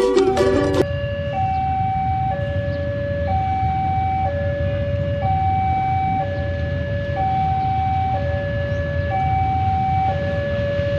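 Railway level crossing warning alarm sounding, two tones alternating high-low about once a second each, over a steady low rumble.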